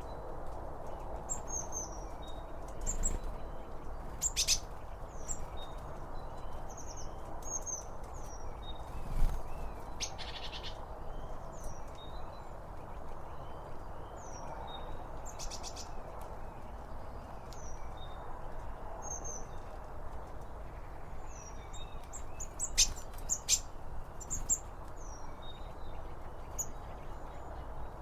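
Small birds chirping again and again over a steady rushing background. A few sharp crunches or snaps are scattered through, the loudest about nine seconds in.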